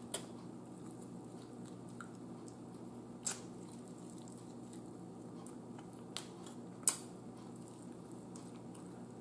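A person chewing and biting food eaten by hand, close to the microphone, with four short sharp clicks: one at the start, one about 3 s in, and two around 6 to 7 s, the last of these the loudest. A faint steady hum runs underneath.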